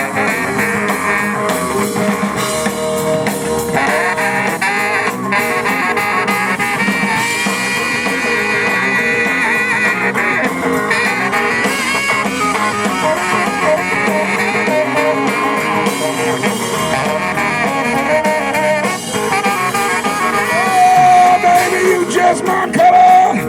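Live blues-rock band with trumpet, saxophone, bass and drums playing an instrumental break between verses. Held, wavering lead notes run through the middle, and singing comes back in near the end.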